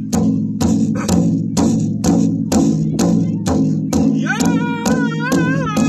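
Powwow big drum struck in unison by several drummers, a steady beat of about two strokes a second with a ringing low tone. About four seconds in, a high-pitched lead singer's voice enters, opening the song.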